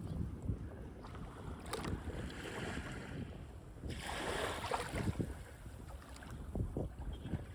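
Sea waves breaking and washing up a beach, the wash swelling twice, over a low rumble of wind on the microphone.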